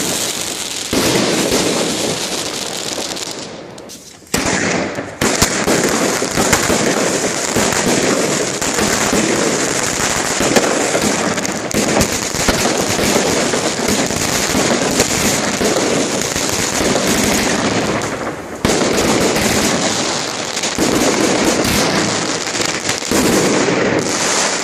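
Fireworks going off in a dense, rapid string of crackles and bangs. The barrage fades out about four seconds in and again around eighteen seconds, each time starting up again abruptly at full force.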